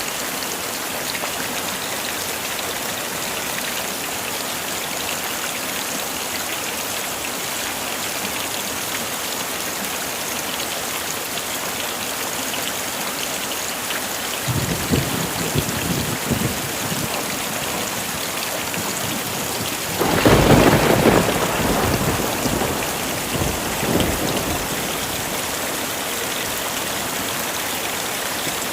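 Heavy rain falling steadily. About halfway through, thunder rumbles for a couple of seconds; a louder thunderclap breaks suddenly about two-thirds in and rolls on for several seconds.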